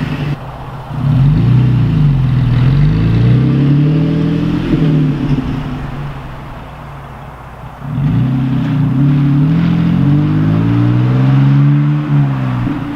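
Toyota Tacoma's engine through an MBRP 3-inch single-exit cat-back exhaust, revving up and down with the pitch climbing and falling. It eases off to a quieter stretch midway, then comes back loud with a sharp rise about eight seconds in.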